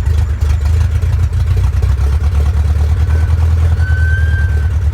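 Steady low drone of an airplane in flight, with a short, thin high tone near the end.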